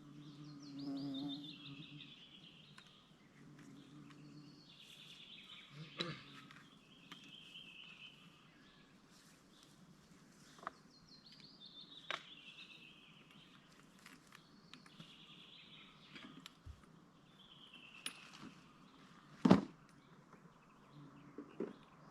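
A songbird singing the same short, descending trilled phrase over and over, a few seconds apart. A few sharp cracks break in, the loudest near the end.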